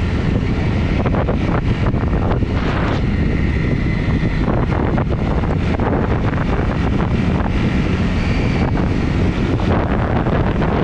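Honda CRF250 single-cylinder four-stroke motorbike engine running while under way, heavily mixed with wind buffeting on the microphone.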